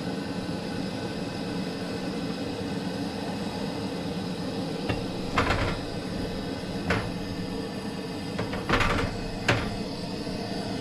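Camp stove running steadily under a pan of oil heating for blackening fish, with four short knocks and clinks of cookware being handled in the second half.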